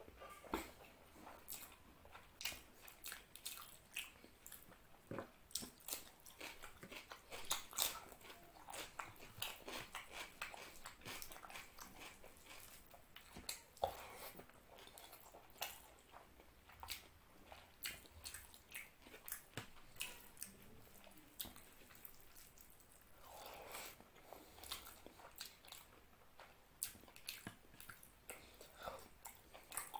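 Close-up eating sounds of a person chewing mouthfuls of mutton curry and rice eaten by hand. Wet, irregular lip smacks and mouth clicks, many per second.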